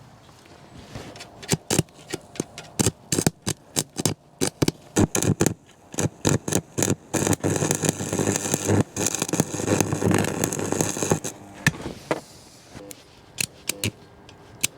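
Metalwork on steel trackbed framing: a run of irregular sharp clanks and knocks, then a few seconds of denser scraping and rasping on metal from about the middle, with scattered taps near the end.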